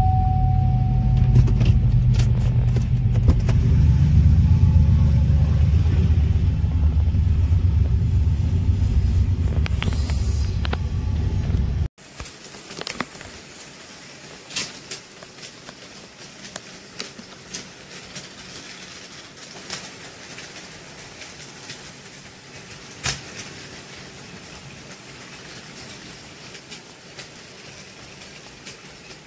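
Diesel freight locomotives rumbling steadily past, heard from inside a car. About twelve seconds in the sound cuts to a much quieter model train running on a layout, with scattered small clicks.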